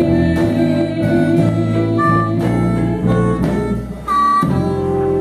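Live blues band playing an instrumental passage between sung lines: held lead notes over guitar and a bass line.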